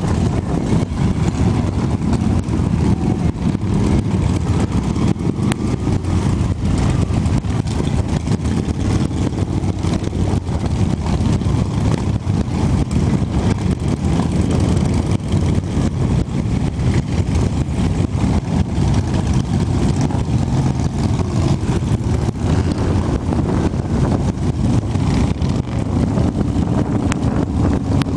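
Motorcycle engines running steadily, with little change in pitch or level.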